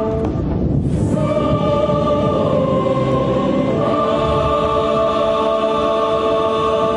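Choir singing long held chords that change every few seconds, over a low rumbling noise.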